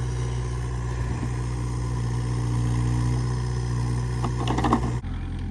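Engine of the dump truck or digging machine idling steadily with a deep hum. A little before the end it breaks off abruptly into a slightly different engine sound.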